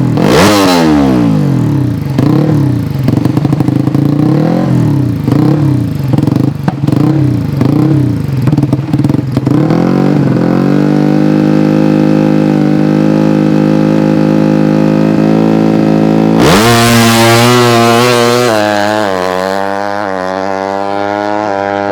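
A tuned 200cc underbone drag bike's engine revved up and down about once a second, then held at high revs for several seconds. Then it launches: the pitch shoots up and climbs in steps, dropping back at each gear change, and gets a little quieter near the end.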